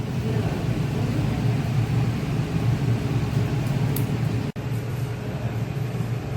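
Steady low rumble of a moving road vehicle, with a brief dropout a bit past halfway.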